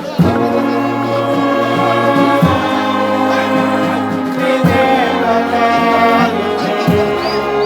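Brass band playing a slow tune in sustained chords, with a low drum beat about every two seconds.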